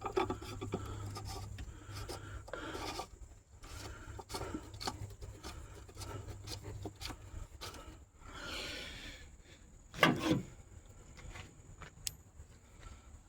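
Oil filter housing cap on a 3.6 Pentastar engine being hand-threaded back in after a filter change: irregular scraping and rubbing strokes about every second or two, with a louder, sharper one about ten seconds in.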